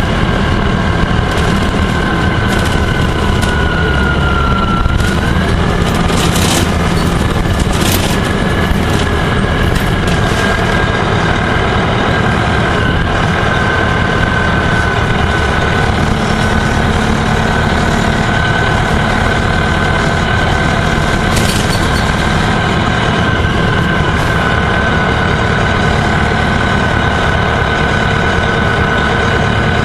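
Gillig Phantom transit bus running under way: a steady engine and road noise with a thin high whine that dips in pitch about five seconds in, then holds steady. A few sharp rattles or knocks cut through, in the middle and again later.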